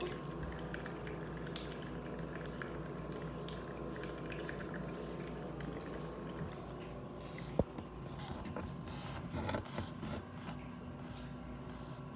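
Nebulizer running with a steady hum. A single sharp click about seven and a half seconds in, and some rustling a little later.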